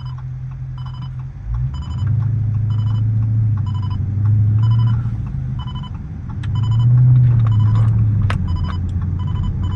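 Dodge SRT 392's 6.4-litre HEMI V8 droning while the car is driven. It gets louder about a second and a half in and swells twice as the car pulls. Evenly repeating electronic beeps, typical of a radar detector alert, sound over it throughout.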